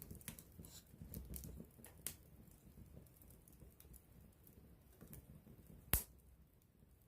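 Wood campfire crackling close up: scattered small pops and snaps over the low rush of the flames, with one loud, sharp pop about six seconds in.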